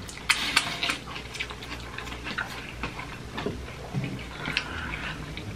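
Close-miked chewing of fried potato snacks (hash browns and smiley fries): irregular wet mouth clicks and smacks, over a low steady hum.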